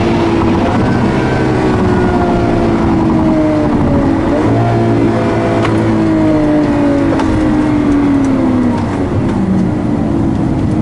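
Lamborghini Aventador's V12 engine running with its pitch falling slowly as the revs drop, with a short rev blip about four and a half seconds in.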